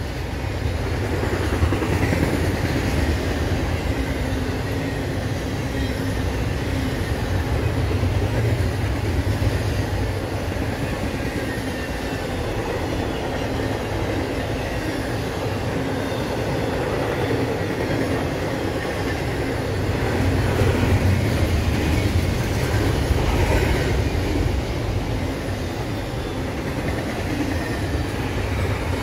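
Double-stack intermodal container well cars rolling past close by: a steady rumble and rattle of steel wheels on rail, growing a little louder about three-quarters of the way through.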